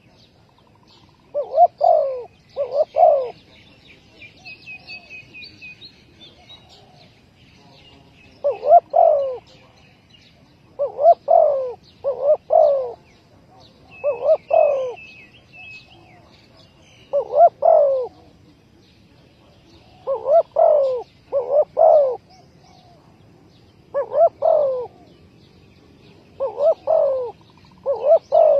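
Spotted dove cooing: phrases of one to three coos repeated about every three seconds, with faint chirps of small birds behind.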